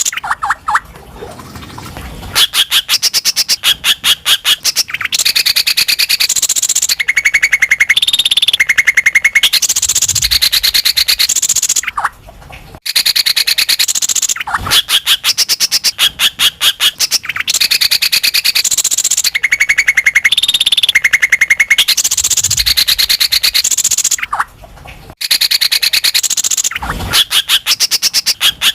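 Greater green leafbird (cucak ijo) singing loudly and without let-up: fast, high-pitched rattling trills and chattering phrases, breaking off briefly about 12 and 25 seconds in. The same run of phrases comes round twice, as in a looped lure recording played to spur other leafbirds to sing.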